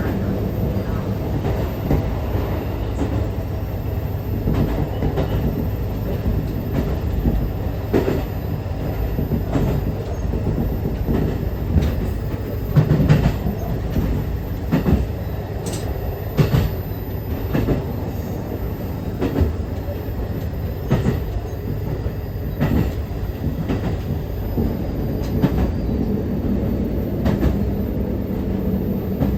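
KiHa 150 diesel railcar running along the line, heard from on board: a steady low engine and running rumble, with the wheels clacking over rail joints every few seconds.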